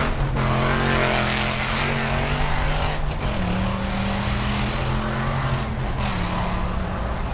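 A propeller aircraft's engine drones loudly overhead. Its pitch drops a little about three seconds in and again about six seconds in.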